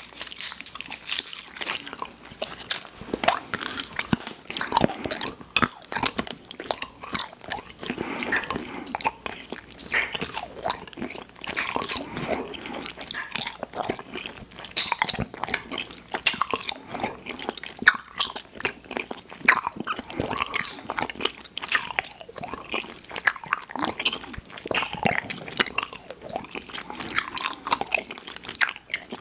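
A person chewing and biting sweets close to the microphone: continuous wet, sticky mouth clicks and smacks with small crunches, irregular and without pause.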